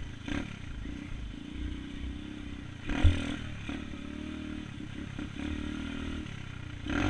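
Coolster 125 pit bike's small single-cylinder four-stroke engine running while riding, with rattling knocks and one loud thump about three seconds in.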